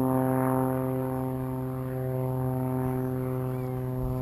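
Twin-motor foam RC model of an OV-10 Bronco in flight: a steady, even-pitched propeller hum.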